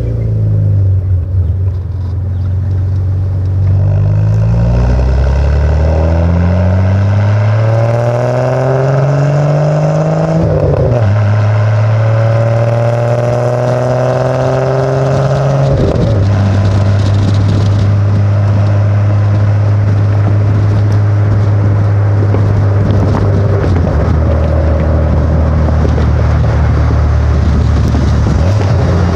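1986 BMW 325e's M20B27 straight-six with a 2.5-inch cat-delete exhaust, pulling up through the revs twice. Each pull ends in a sudden drop in pitch as it shifts up a gear, and the engine then settles to a steady drone at cruising revs.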